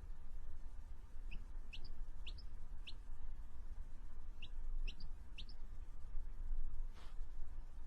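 A small bird chirping: two quick runs of about four short, rising chirps each, a couple of seconds apart.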